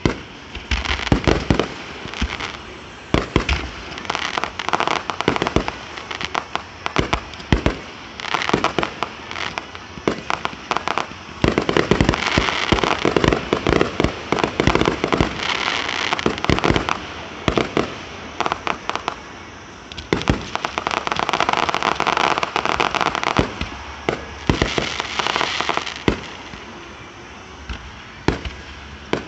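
Aerial fireworks display: a steady run of booming shell bursts, with stretches of dense crackling a third of the way in and again later on.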